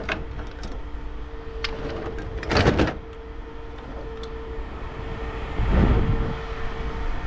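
Steady hum of an idling vehicle engine, with a short loud clatter about two and a half seconds in and a heavier low rumble near six seconds.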